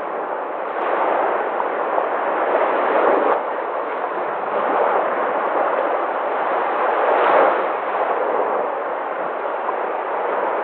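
Sea waves washing in, a continuous rushing noise that swells with each wave: one surge from about a second in that cuts off sharply after three seconds, and a louder one around seven seconds.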